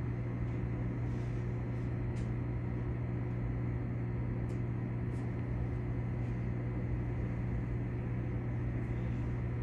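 Steady low electrical hum from a stopped electric train's onboard equipment while it idles at a standstill, with a few faint ticks.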